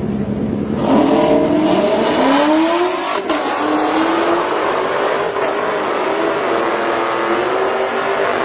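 Cars launching off the line in a drag race: engines rev up with a climbing pitch from about a second in, a sharp break around three seconds in as a gear change, then hold a steady wide-open run down the track.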